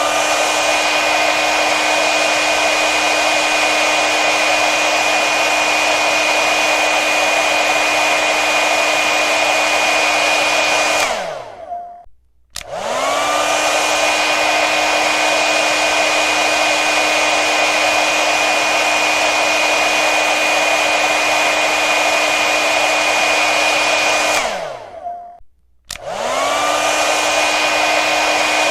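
Electric hair dryer blowing, a steady rush of air with a steady motor whine. Twice it is switched off, the whine falling as the motor winds down, and about a second later it starts again, the whine rising as it spins up.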